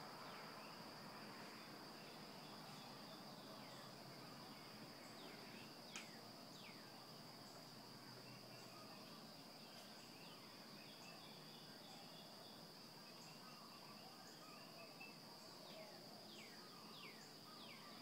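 Birds calling faintly: short falling whistles in small clusters, about a sixth of the way in, a third of the way in and again near the end, over a steady high-pitched trill.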